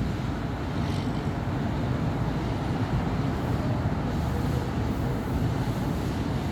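Steady road traffic on a busy city avenue: a continuous low rumble of passing cars, with no single vehicle standing out.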